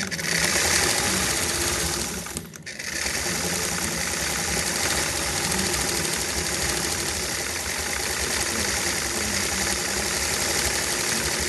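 Vintage Singer Spartan sewing machine running and stitching. It stops briefly about two and a half seconds in, then starts again and runs steadily.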